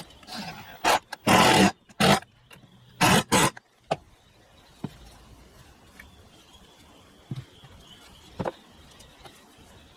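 Workshop noise from assembling a wooden bracket with glue and screws: several short, loud bursts in the first three and a half seconds, then a few faint knocks.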